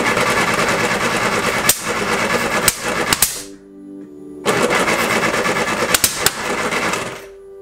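A classic Mini's rebuilt A-series engine with an Arden 8-port head being cranked on the starter in two long bursts, turning over quickly and coughing with several sharp pops, but not catching. The ignition base timing has just been reset in the ECU to try to cure the no-start.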